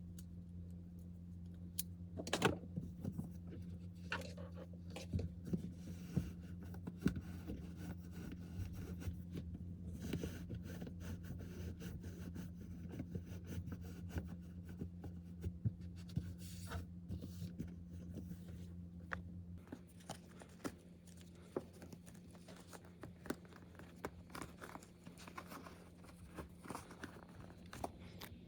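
Objects being handled close by: scattered light clicks, scrapes and rustles over a steady low hum.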